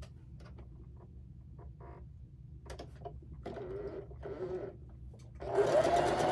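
Faint clicks of fabric being handled, then about five seconds in an electric sewing machine starts up and runs steadily, stitching a seam. Two short lower-pitched bursts come shortly before it starts.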